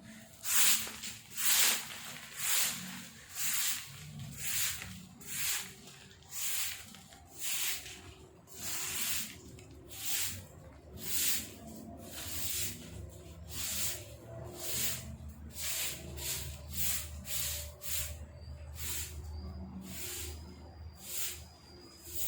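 A broom sweeping fallen leaves after rain, in steady swishing strokes about one a second that quicken to about two a second in the second half.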